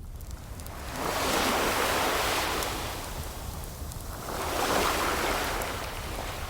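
Ocean waves breaking and washing up on shore twice, each a swell of surf noise that rises and falls away, over a steady low rumble. Faint crackles of a wood fire come through now and then.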